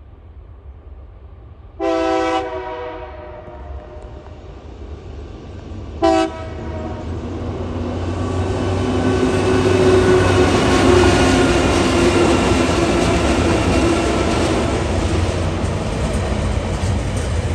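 A TasRail diesel freight train's horn sounds a short blast, then a shorter one about four seconds later. The locomotives' diesel engines and the container wagons rolling on the rails then grow louder and stay loud as the train passes close by.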